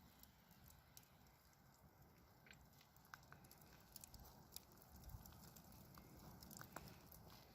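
Near silence, with faint scattered small clicks and ticks over a low background hum.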